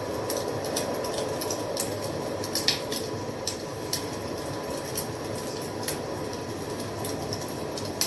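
Fire crackling: irregular sharp pops and snaps over a steady hiss of burning, with one louder pop a little under three seconds in.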